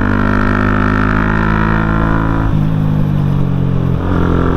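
A TVS Apache RTR 160 4V's single-cylinder engine pulls under throttle through a stock muffler that has been cut open for a louder exhaust note with more bass. The engine note shifts about halfway through and again near the end.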